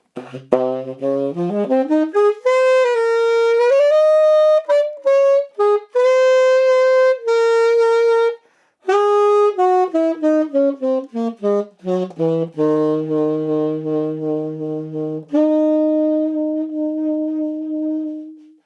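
SaxWorks Master Series SML tenor saxophone with a DaVinci ligature played unaccompanied: a phrase climbs from a low note into the middle register with several held notes, then after a short break runs down to a long low note and ends on a long sustained note that fades out.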